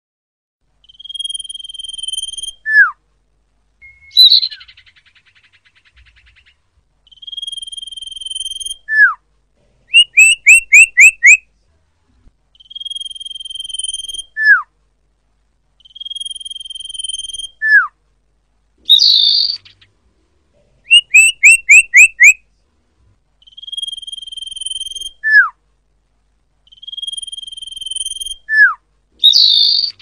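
Common iora (cipoh, locally sirtu) calling. Six long, level whistles, each ending in a short downslurred note, alternate with two rapid runs of about five short falling notes. Three harsh, raspy calls are mixed in.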